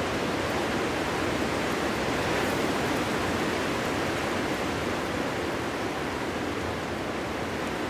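Strong winter wind blowing steadily through forest trees, a continuous rushing that swells slightly about a third of the way in and then eases a little.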